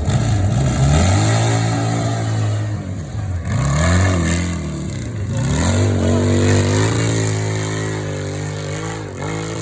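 Hillclimb motorcycle engine revving hard up the slope, its pitch climbing and dropping in about four surges as the throttle is worked. It grows fainter in the last few seconds as the bike gets farther away.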